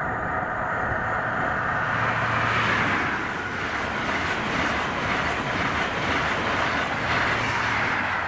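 High-speed express passenger train passing close by at speed: a steady rush of wheel, rail and air noise that swells and holds as the coaches go past.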